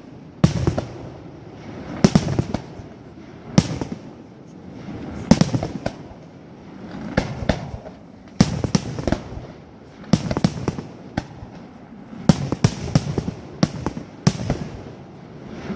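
Aerial fireworks shells bursting one after another, sharp bangs coming singly and in quick clusters every second or two, each followed by a rumbling echo.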